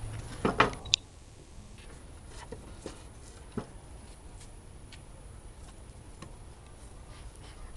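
Scattered knocks and light clicks of wooden beehive parts being handled and fitted together, with a couple of sharper knocks in the first second and only faint taps after that.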